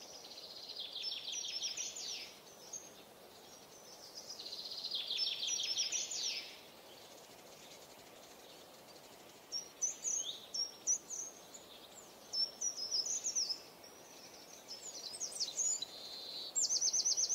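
Songbirds singing: two fast trilled phrases in the first six seconds or so, then a run of short, varied chirps and twitters, over a faint steady hiss.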